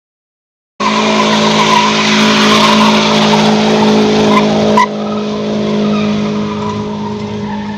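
A car doing a burnout: engine held at steady high revs with tyres squealing, cutting in abruptly about a second in. About five seconds in the tyre noise stops suddenly and the engine runs on more quietly.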